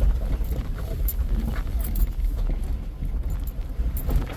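Off-road vehicle crawling over a rough, rocky trail: a low engine rumble with irregular knocks and clatter from the tires and suspension on rocks.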